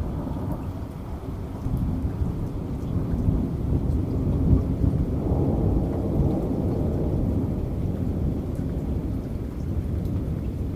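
Rolling thunder over steady heavy rain. The low rumble swells a couple of seconds in, is loudest around the middle, then slowly eases.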